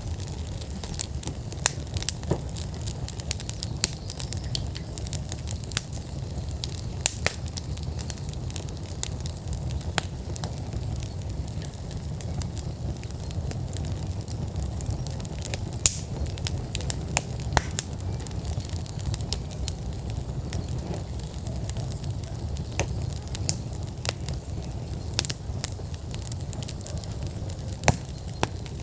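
Outdoor wood fire in a fire pit burning at full burn: a steady low rumble of flames with frequent, irregular sharp crackles and pops from the burning logs, a few of them louder.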